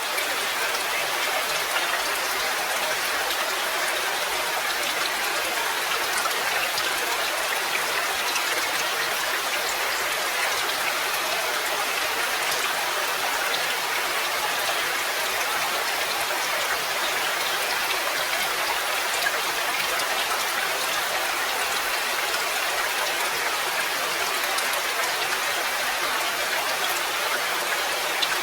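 Steady rain, a dense, even patter of drops that does not let up.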